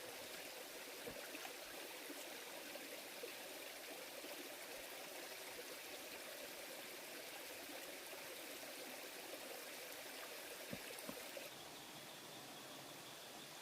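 Stream water running steadily, with a few faint clicks. Near the end the sound drops abruptly to a quieter steady hiss.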